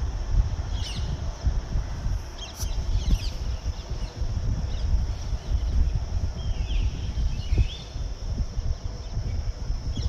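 Birds giving short, high chirping calls in three spells, over a constant low rumble.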